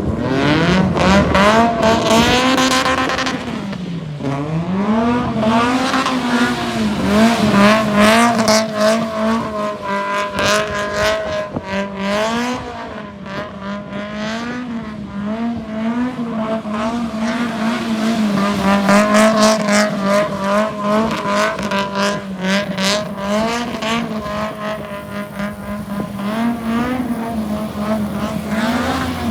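Car engine held high in the revs while drifting, its pitch rising and falling with the throttle, with tyres squealing. The revs drop sharply about four seconds in, then climb again.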